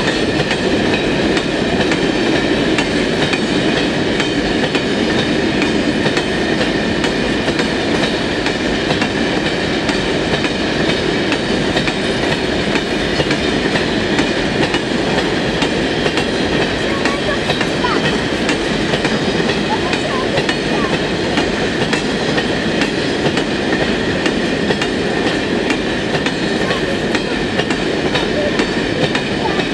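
Covered freight wagons of a long freight train rolling past close by: a steady, loud noise of steel wheels on the rails, with a faint high ringing tone over it.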